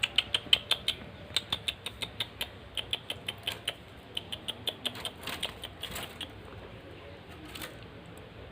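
Long-tailed shrike (cendet) giving rapid runs of sharp, harsh chips, about five or six a second, for roughly six seconds, with one more chip a little later.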